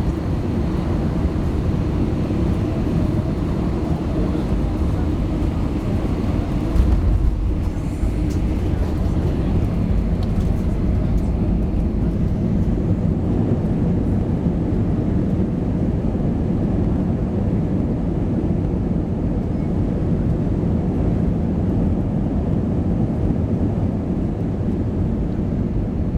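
Cabin noise inside a landing airliner: a steady low rumble of engines and airflow, with a brief louder jolt about seven seconds in, after which the rumble goes on a little more evenly.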